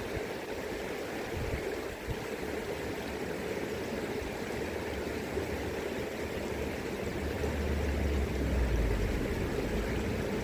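River current flowing steadily, with gusts of wind buffeting the microphone as a low rumble that grows stronger about three-quarters of the way through.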